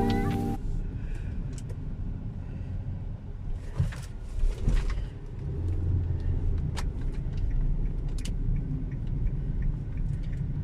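Low, steady rumble of a 2021 Hyundai Accent running, with a few light clicks.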